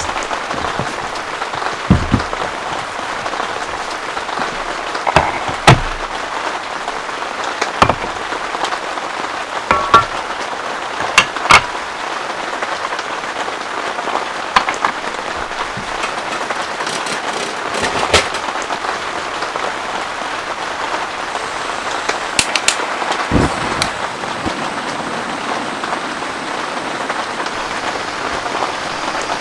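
Heavy rain falling without a break, a steady hiss with irregular sharp taps of big drops striking close by.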